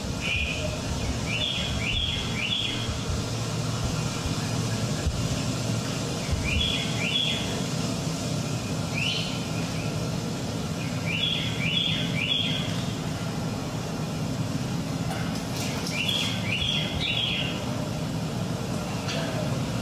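Bird chirps in the performance's soundtrack: short, high, falling calls, mostly in quick runs of two or three, recurring every few seconds over a steady low rumble.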